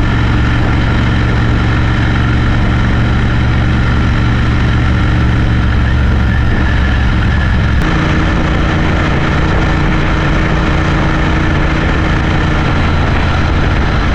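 Motorcycle engine running steadily under way, its note stepping to a new steady pitch about eight seconds in.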